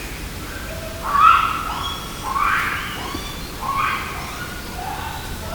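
A wild animal calling repeatedly: about four pitched calls roughly a second apart, each sliding upward, over a faint steady background hiss.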